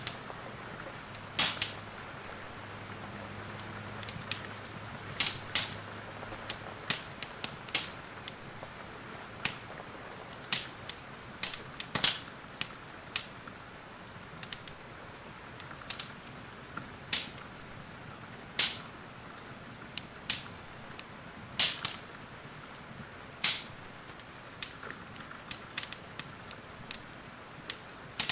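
Wood fire in a fireplace crackling, with sharp irregular pops about every second, over a steady hiss of rain.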